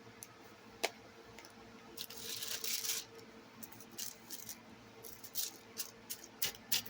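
Small plastic diamond-painting supply containers being handled and put away: a sharp click, a crinkling rustle about two seconds in, then a run of light clicks and taps.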